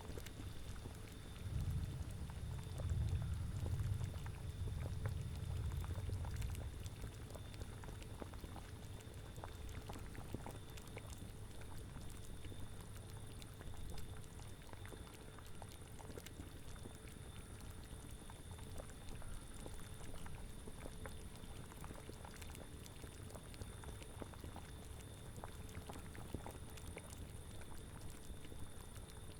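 A cauldron bubbling at the boil with many small popping clicks, over a low wind rumble that is strongest for the first seven seconds or so and then settles.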